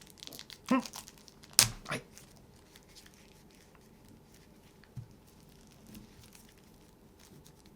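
Plastic shrink-wrap being torn and pulled off a deck of game cards: a sharp snap a little over a second in, then faint crinkling and handling.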